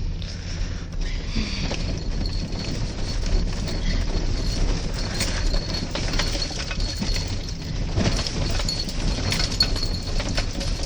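Inside a moving car on an icy, bumpy road: a steady low rumble from the tyres and engine, broken by frequent short knocks and rattles as the car goes over the bumps.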